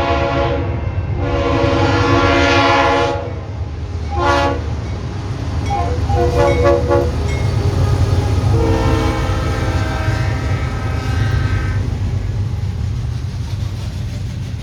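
A locomotive's multi-chime air horn sounds a string of blasts over the steady low rumble of the train. A blast ends about half a second in, a long blast follows, then a single short toot, a quick run of short toots, and a last long blast that stops about four fifths of the way through.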